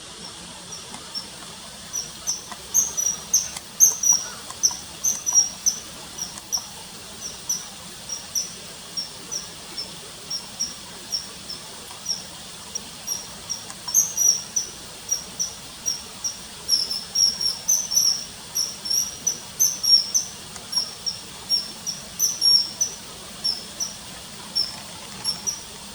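Common kingfisher calling: a long run of short, sharp high-pitched whistles, two or three a second, coming faster and louder in stretches, over a faint steady hiss.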